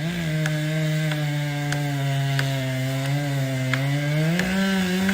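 Chainsaw engine running at a steady speed, its pitch rising for a moment about four and a half seconds in.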